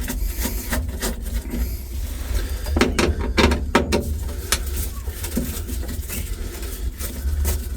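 Clicks, knocks and scrapes of screwdrivers and loose screws as screws are backed out of a truck's sheet-metal transmission tunnel cover, with a cluster of louder knocks about three seconds in, over a steady low rumble.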